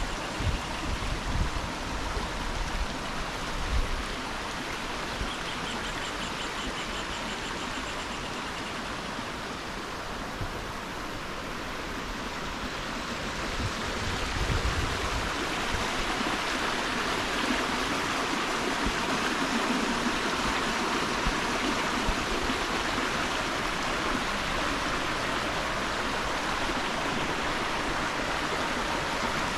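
Steady rush of water from a waterfall and its stream, growing louder about halfway through. A few low thumps sound in the first few seconds.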